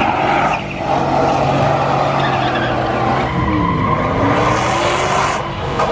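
A car doing a burnout: the engine is held at high revs while the tyres squeal against the pavement. The engine pitch dips and climbs back twice, once past halfway and again near the end.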